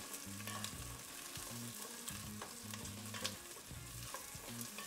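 Onion and garlic chunks sizzling in hot olive oil in a steel stock pot over medium-high heat, stirred continuously with a wooden spoon, with a few light knocks of the spoon against the pot.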